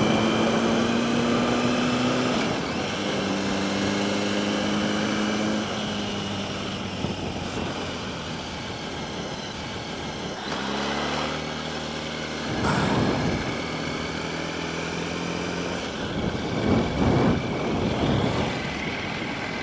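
Yamaha R1 inline-four engine running at low, fairly steady revs in traffic, its pitch stepping down and back up a few times, with wind and road noise underneath.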